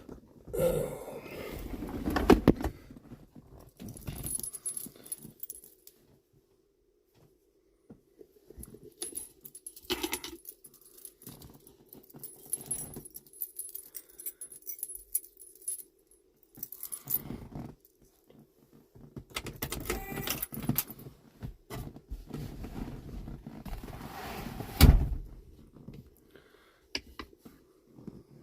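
Keys jangling and clinking in irregular bursts, with rustling and knocks between quiet gaps; one sharp thump about 25 seconds in.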